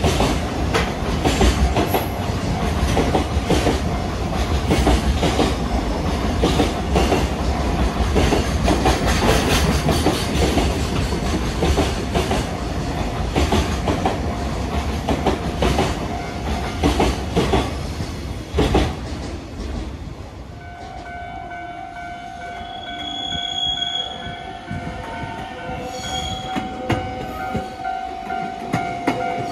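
A JR Freight container train, its flat wagons loaded with maroon containers, rolls past close by with a continuous heavy rattle and the clickety-clack of wheels over rail joints. Near the end it gives way to a quieter stretch with a steady high tone that has several pitches.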